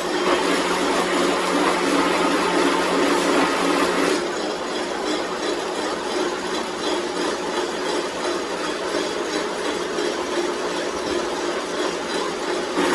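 A workshop power tool or machine running steadily, with a dense whirring noise that eases slightly about four seconds in.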